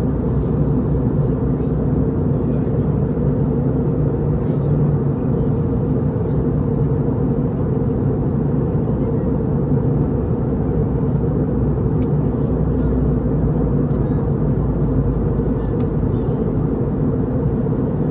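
Steady low drone of an Airbus A320 airliner in flight, heard inside the passenger cabin: engine and airflow noise.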